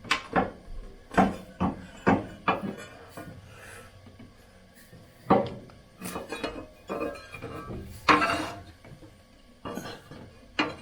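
Irregular metallic clinks and knocks as a new water heater anode rod is handled and fitted at the tank's anode port.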